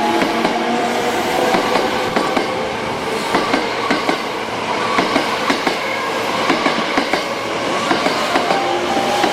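Hankyu electric train moving along the station tracks, its wheels clattering over rail joints and points in a long run of irregular clicks.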